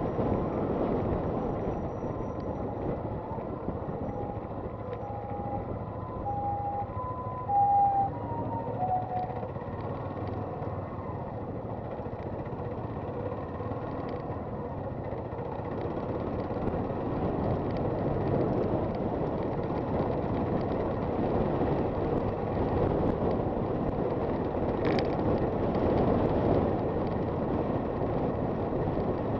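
Honda FT400 single-cylinder motorcycle engine running at cruising speed, mixed with steady wind and road rush. A few seconds in there is a brief run of short beeping tones at several different pitches, the loudest near the middle of the run.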